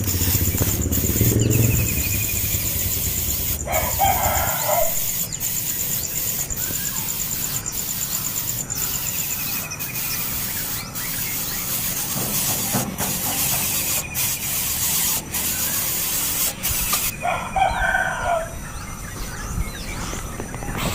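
A rooster crowing twice, about four seconds in and again near the end, while a small bird gives short falling chirps every few seconds. A steady high buzz runs through the first half.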